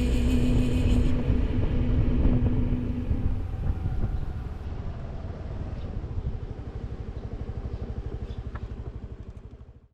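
Suzuki Address 125 scooter's single-cylinder engine running, with the tail of background music fading out in the first few seconds. The engine sound gets quieter and settles into an even pulse, then cuts off suddenly at the end.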